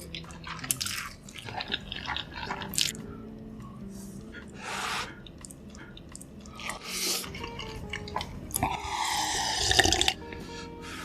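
Close-miked wet eating sounds: chewing and mouth smacks on sauced chicken, in many short bursts, with a longer, louder wet stretch about nine seconds in, over soft background music.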